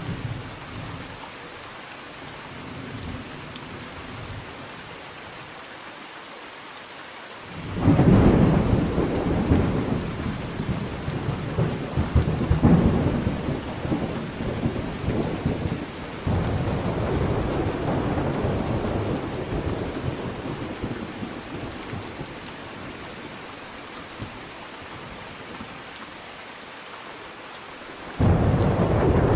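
Thunderstorm with steady rain. Thunder breaks suddenly about a quarter of the way in and rolls on for several seconds before fading back under the rain, and another thunderclap starts abruptly near the end.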